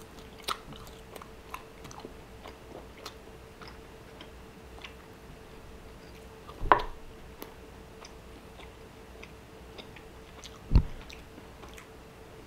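A man chewing a mouthful of grilled New York steak close to the microphone, with soft wet mouth clicks throughout. A sharper click comes about seven seconds in and a low thump about eleven seconds in, over a faint steady hum.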